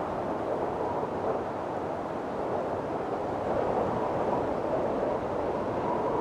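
Windstorm wind blowing steadily in a dense rush, with a faint whistling tone that comes and goes.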